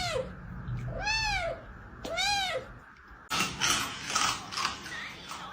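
A cat meowing repeatedly, about once a second, each meow rising and then falling in pitch. From about three seconds in, a burst of clattering and rattling follows.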